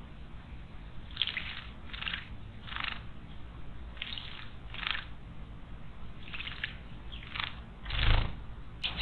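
A small bird bathing in a stone water basin, splashing in short bursts about once a second, with a louder, deeper splash near the end.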